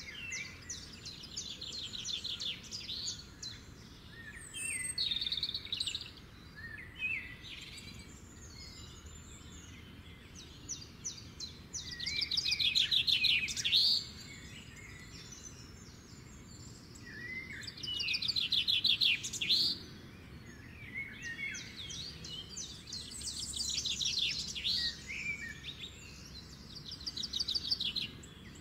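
Songbirds singing: a series of rapid, trilled phrases of high notes, one every few seconds, the loudest about twelve and eighteen seconds in. A faint, steady low background hum runs underneath.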